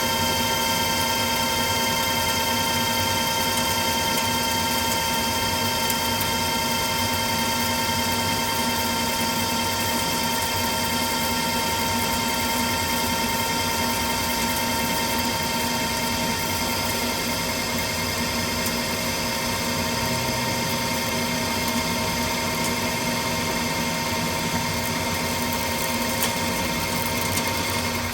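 Precision Matthews metal lathe running under a heavy facing cut on a pipe flange, taking about 60 thou a pass: a steady machine whine with several held tones over the hiss of the cut.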